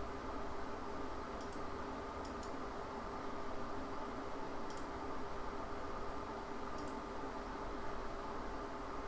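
A few sharp, separate computer mouse clicks spread over several seconds, over a steady hum of computer and room noise.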